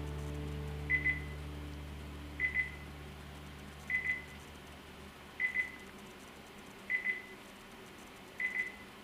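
An electronic beeper sounds a short double beep about every second and a half, steady and unchanging. Under it, a low hum fades out over the first few seconds.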